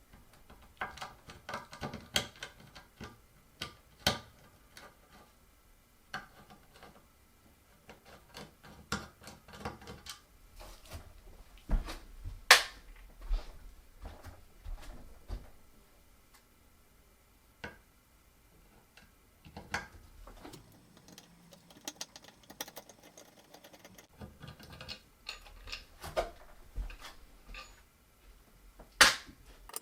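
Irregular clicks, taps and knocks of a Hunter Southern Breeze ceiling fan being taken apart by hand: screws and blade parts being handled and removed. A few sharper knocks stand out, the loudest about twelve seconds in and another just before the end.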